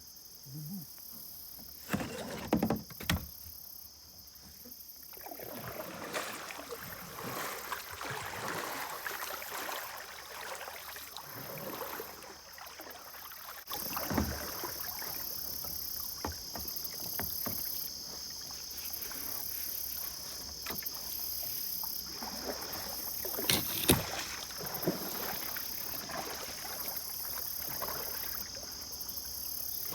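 Kayak paddle strokes dipping and splashing in the water, with a few sharp knocks near the start. A steady, high insect drone runs underneath and gets louder about halfway through.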